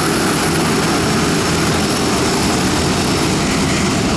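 Steady jet aircraft noise: a continuous loud rush with a faint high whine above it.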